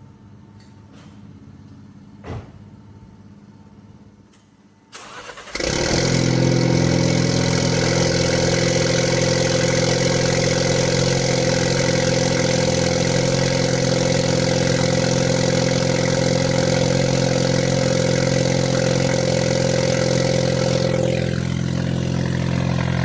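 Alfa Romeo Giulia engine, breathing through a Trofeo Ultimo exhaust and high-flow downpipe, cold-started: a few faint clicks, a brief crank about five seconds in, then it catches and holds a loud, steady high cold-start idle. Near the end the idle drops a step in level and pitch as it settles.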